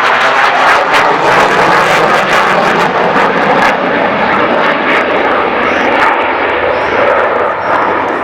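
Loud, steady aircraft engine noise from a display aircraft flying close by.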